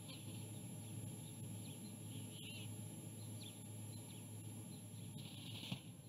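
Faint, scattered bird chirps and calls over a steady low hum. Near the end there is a short harsh burst with a sharp click.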